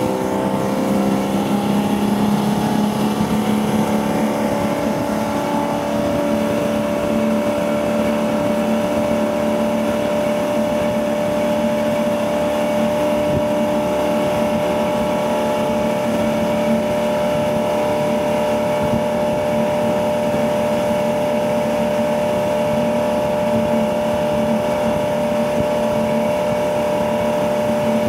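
Ski tow boat's inboard engine pulling a barefoot skier at race speed. Its pitch climbs over the first few seconds, then holds steady at high revs over a constant rushing hiss.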